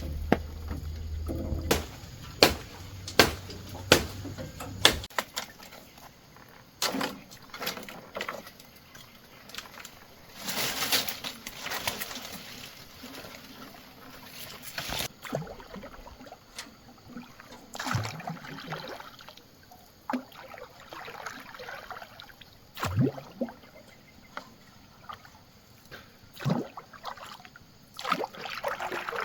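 Water sloshing and splashing, with scattered sharp knocks, several in quick succession in the first few seconds and a low hum that stops about five seconds in.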